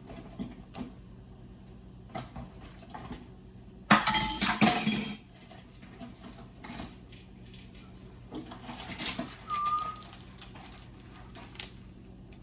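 Light clicks and knocks of hard objects being handled, with one loud, bright clinking clatter about four seconds in that lasts about a second. A short squeak-like tone comes near the ten-second mark.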